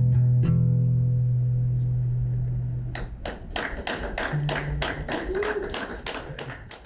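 The band's final chord on guitar and bass rings out steadily and fades. From about three seconds in, a small group of people claps, and the applause dies away near the end.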